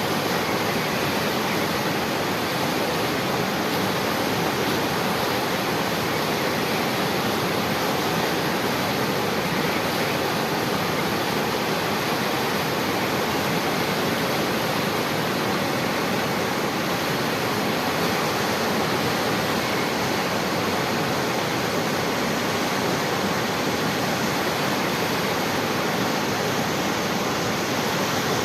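Steady rush of flowing water, an even noise that holds the same level throughout.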